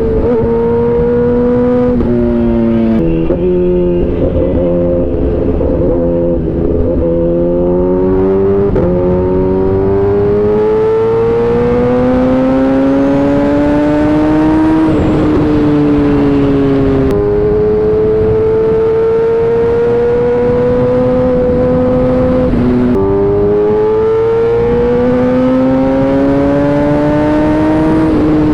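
Inline-four sport motorcycle engine under way. Its note climbs slowly in pitch and drops suddenly several times, as at upshifts.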